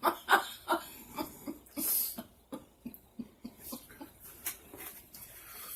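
Close-up eating sounds of shrimp being chewed: an irregular run of soft wet clicks and lip smacks, with a short breathy hiss about two seconds in.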